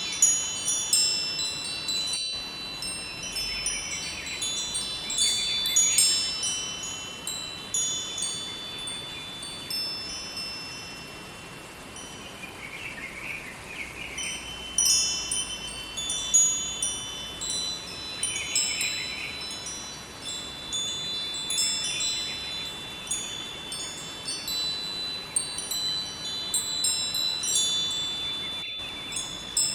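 Wind chimes ringing continually, their high tubes struck irregularly and overlapping as they sway, over a faint steady rush of river water.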